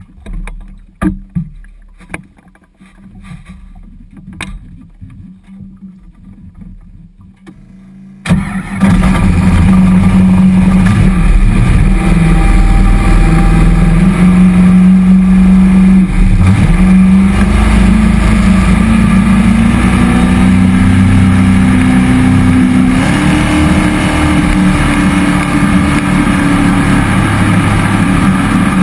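A jet boat's cammed 5.3-litre LS V8 driving a Berkeley 12JC jet pump. It starts with a low rumble and a few knocks, then about eight seconds in it jumps suddenly to a loud, steady run under throttle. The engine pitch climbs gradually and steps up again near the end.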